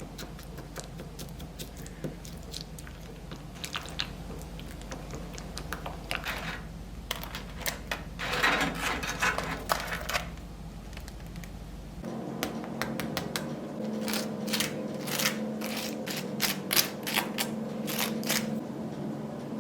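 Light clicks and taps of things being handled in a kitchen, with a denser rustling noise for about two seconds near the middle. About twelve seconds in, a steady low hum sets in under quicker, sharper taps.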